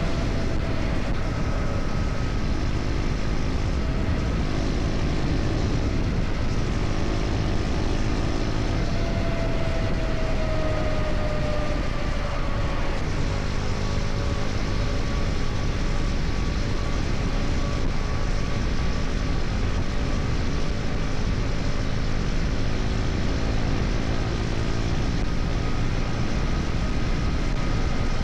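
KTM Duke 250 single-cylinder engine running at cruising speed under heavy wind rush. Its note sinks slowly over the first half as the bike eases off, then holds steady.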